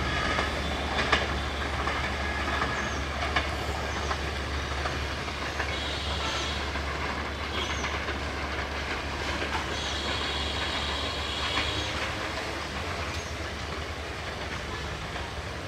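Passenger train of LHB coaches rolling away over the track: steady wheel rumble and clickety-clack with a couple of sharp clicks in the first few seconds, slowly fading as the train recedes.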